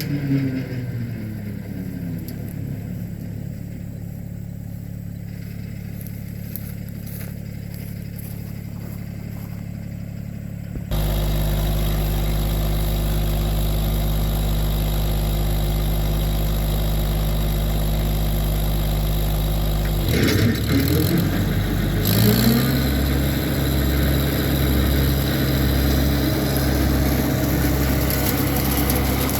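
Massey Ferguson 1725 compact tractor's diesel engine: it slows to a steady low idle, then about a third of the way in it is suddenly much louder and steady, and near two-thirds through it dips and rises in pitch before running steadily again.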